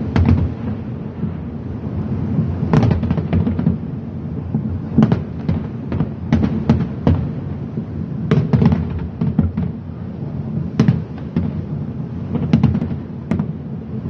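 Fireworks going off in quick volleys of sharp bangs, a cluster every second or two, over a continuous low rumble.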